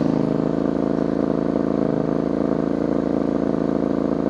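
Suzuki SV650S 645 cc V-twin running at a steady idle through a short Delkevic 200 mm stubby exhaust, with a deep exhaust note. The engine is not yet warmed up.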